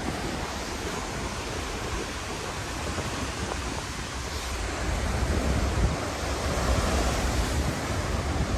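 Typhoon surf crashing and rushing on the shore with strong wind buffeting the microphone; the surge grows louder about five seconds in.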